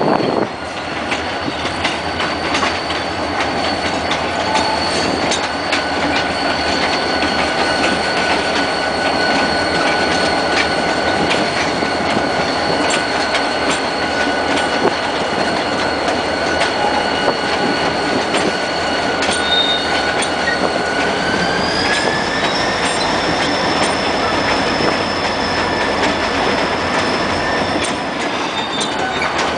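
Freight train cars rolling slowly with a sustained high-pitched wheel squeal, over a steady rolling noise and scattered clicks. About two-thirds of the way through, the squeal slides up in pitch, then drops back near the end.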